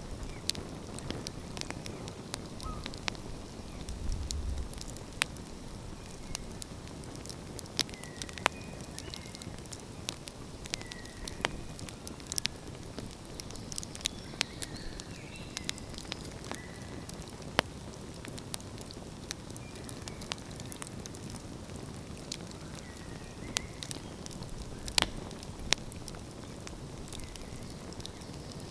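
Wood fire burning, crackling with sharp, irregular pops over a steady hiss, with a few faint short chirps in between.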